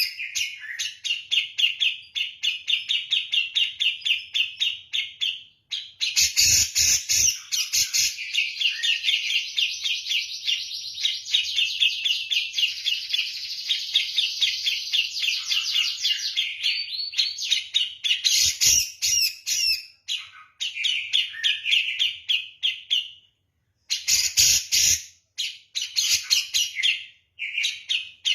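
Javan cucak jenggot (grey-cheeked bulbul) singing persistently: long runs of rapid, high chattering notes with a couple of short breaks. A few soft thuds come in between.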